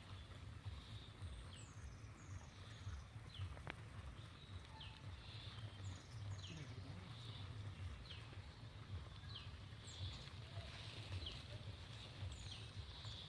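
Faint outdoor birdsong: many short, high chirps that sweep downward, repeating irregularly over a steady low rumble of wind on the microphone.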